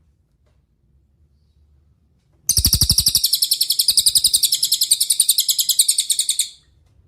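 A cililin songbird singing one fast, high, even trill of rapid repeated notes. The trill starts about two and a half seconds in, lasts about four seconds and stops abruptly.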